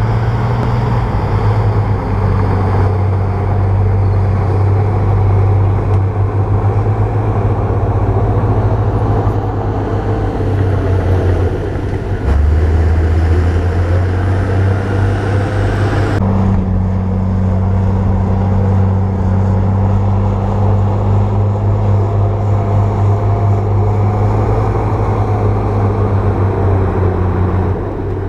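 A bulldozer's heavy diesel engine running steadily under work, with a low, continuous engine note. The note shifts about twelve seconds in, and the sound changes abruptly a few seconds later.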